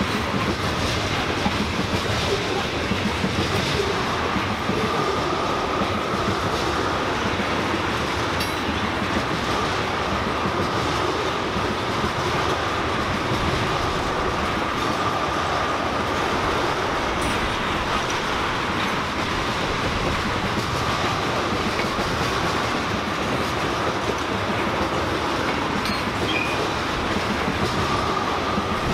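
Train cars rolling past on the track, a steady rumble and clatter of wheels over the rails that doesn't let up, with a faint high squeal from the wheels that comes and goes.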